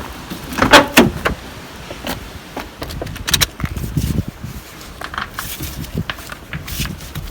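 Clunks, knocks and light metallic rattles as a car's front road wheel is pulled off the hub and handled, the loudest a few sharp knocks about a second in.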